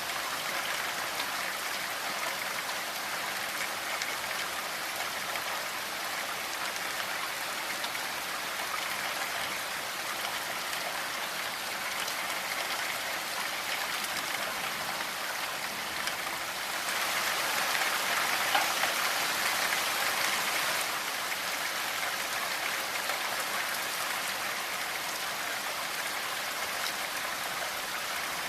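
Steady rainfall, a dense patter of drops on a surface, swelling a little heavier for a few seconds past the middle before easing back.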